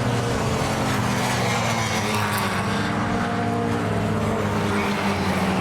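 Classic racing cars' engines running hard at speed as a group of cars goes past, several engine notes overlapping and slowly shifting in pitch.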